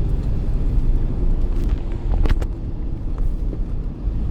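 Steady low rumble of a moving vehicle, with a few faint clicks a little past two seconds in.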